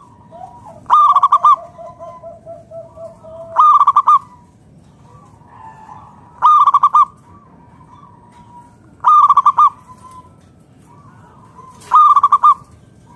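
Local zebra dove (perkutut) cooing: a short, loud, rippling phrase repeated five times, about every two and a half to three seconds. A fainter run of quick, lower notes comes near the start.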